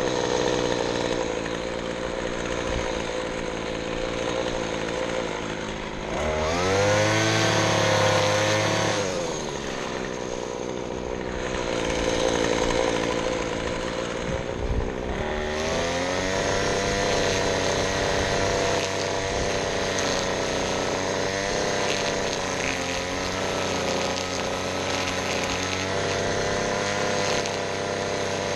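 Small gas engine of handheld lawn equipment running and revving: it speeds up about six seconds in, drops back a few seconds later, then speeds up again a little past halfway and stays there.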